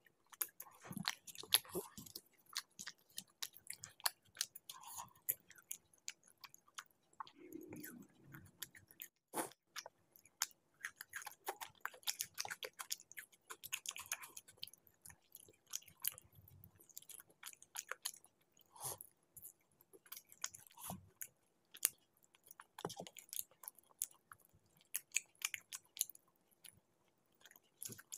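Close-miked chewing and biting while eating chicken curry and laccha paratha by hand: many short, wet mouth clicks come irregularly throughout. A faint steady hum runs underneath.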